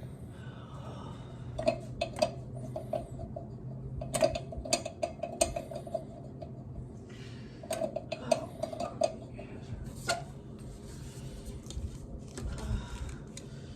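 Hard clinks of dishes or utensils knocked together, in several quick runs, each hit leaving a short ring at the same pitch.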